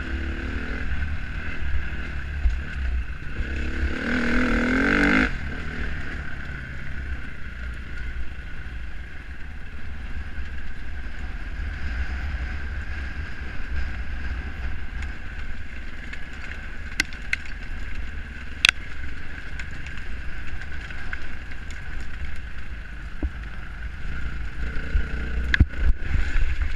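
Dirt bike engine running over heavy wind buffeting on the microphone, revving up hard for about a second some four seconds in, with a few sharp knocks later.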